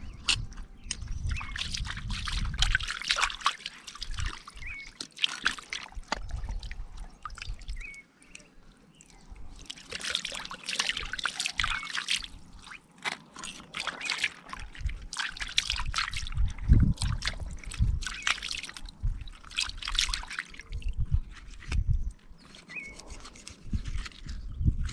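Water splashing and trickling in irregular bursts, with scattered clicks and knocks as something is handled in the water.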